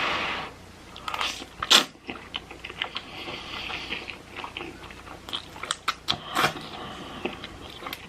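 Close-miked chewing of a mouthful of spicy hot chicken ramen noodles, with many short wet mouth clicks and one sharper click a little under two seconds in.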